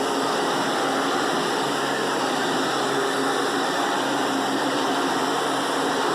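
Hoover WidePath vacuum cleaner running steadily: a constant noise with a faint hum of steady tones in it.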